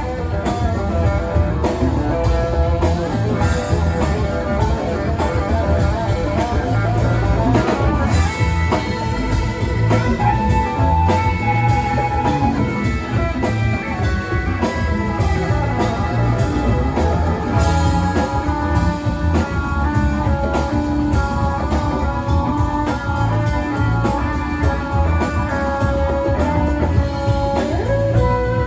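Live rock band playing an instrumental passage: electric guitar lead with sustained notes over bass and drum kit.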